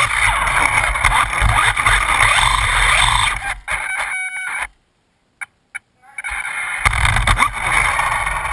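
Losi Mini 8ight electric RC buggy running on an indoor floor: a steady motor and tyre noise with low rumble. About three and a half seconds in, a short steady whine is heard, then the sound cuts out completely for about a second and a half before coming back.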